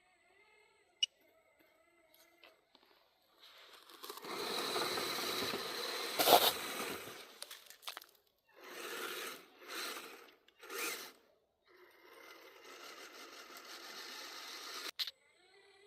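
Crunching and scraping noise: a long stretch with one sharp crack in the middle, three short bursts, then another steady stretch that ends in a click.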